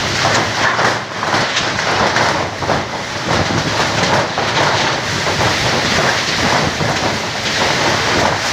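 Storm wind and heavy rain: a loud, steady rushing noise that swells and eases in gusts.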